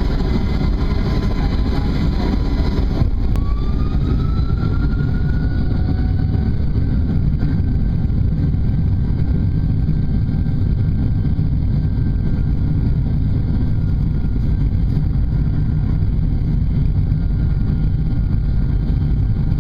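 Boeing 737-300 jet engines spooling up to take-off thrust, heard inside the cabin: a loud, steady rumble with a whine that rises in pitch a few seconds in and then holds.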